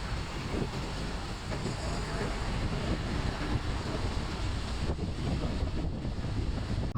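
Wind buffeting the microphone of a moving scooter: a steady rushing noise, heaviest in the low rumble.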